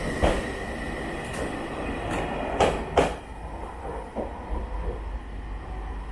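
Train running on rails, with a steady rumble and a few sharp clacks of the wheels over rail joints; a high steady whine fades out in the first second or two.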